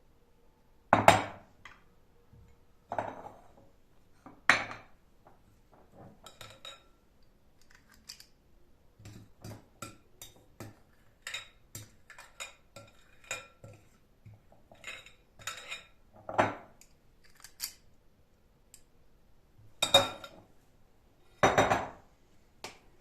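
Dishes and cutlery clinking and knocking together as they are handled, a long run of separate sharp clinks, some ringing briefly, with the loudest knocks about a second in and twice near the end.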